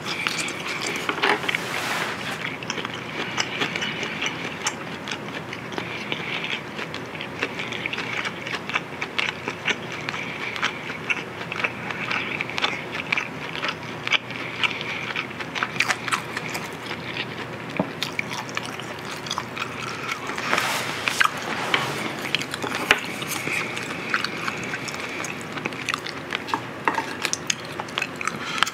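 Close-miked eating sounds of a man chewing marinated pork ribs, with a dense run of small wet clicks and smacks.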